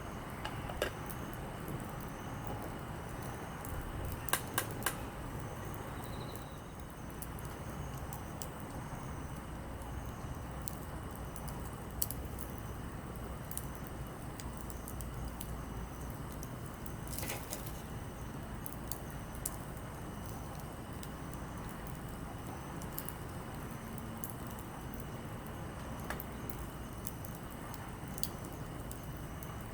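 Wood campfire burning, crackling with irregular sharp pops over a steady low rustle of flame.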